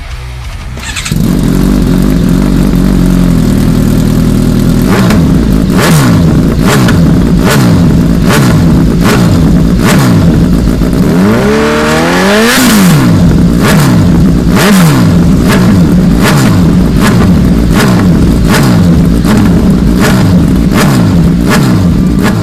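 Motorcycle engine revving hard in a quick, even run of throttle blips, each pitch falling away, with one longer rev that climbs and drops about halfway through. Regular sharp beats run alongside.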